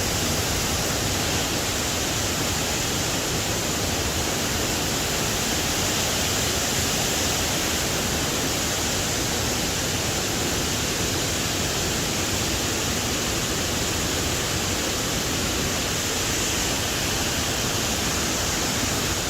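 Fast-running creek water in high flow rushing through rocks, a steady, unbroken rush.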